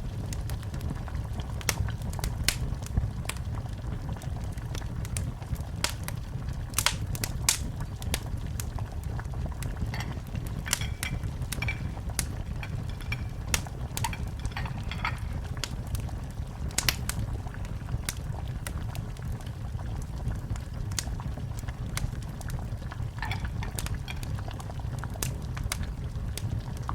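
Wood fire in a fireplace crackling, with irregular sharp pops over a steady low rumble of the burning fire.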